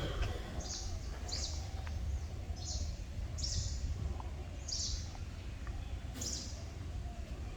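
Outdoor morning ambience with birds calling: short high-pitched calls about once a second over a steady low rumble.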